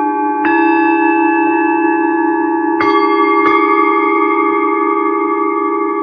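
Singing bowls of several pitches are struck three times: once about half a second in, then twice in quick succession near the middle. Each strike's tones ring on and overlap over a steady low hum from the bowls already sounding.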